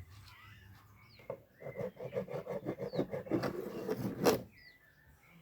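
Quick, rhythmic rubbing or scraping strokes on wood, as with a rasp or sandpaper, for about three seconds, ending with a louder knock. Birds chirp faintly.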